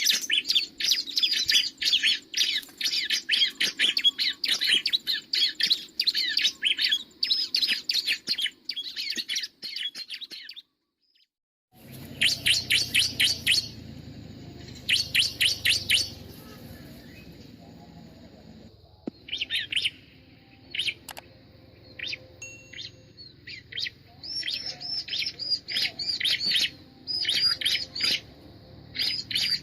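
Bar-winged prinia (ciblek) calling: rapid strings of high, repeated chirps in phrases, with a second-long break about ten seconds in, after which the phrases come more sparsely over a low steady background.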